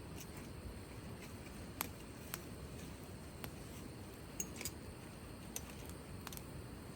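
Wood fire burning in a fire pit: scattered sharp crackles and pops at irregular intervals over a low, steady rumble.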